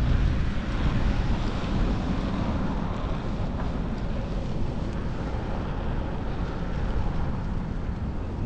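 Wind rushing over a chest-mounted GoPro's microphone as the bicycle moves, a steady low rumble.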